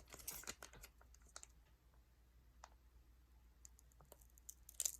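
Faint scattered clicks and light rustling from handling a foil trading-card booster pack and cards, busiest in the first second and again near the end.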